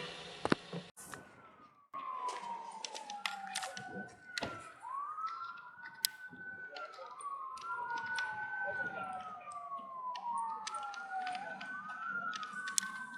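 Faint, distant emergency-vehicle siren in a slow wail, its pitch rising and falling over and over every few seconds, with scattered light clicks and knocks close by.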